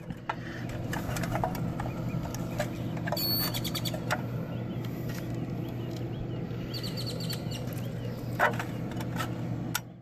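Birds chirping outdoors over a steady low hum, with two quick runs of high chirps about three and seven seconds in. Scattered light clicks and taps come from the capacitor and wiring being handled in the sheet-metal control box.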